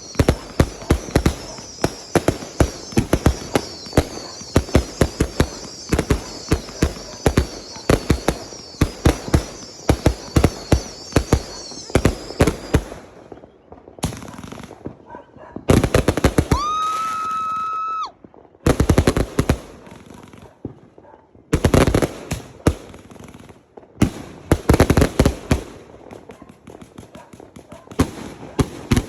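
Fireworks going off in rapid, dense runs of sharp bangs, with a high wavering whistle over them for roughly the first twelve seconds. A whistling firework rises and then holds one steady tone for about a second and a half, a little past halfway, and the bangs stop in a few short gaps.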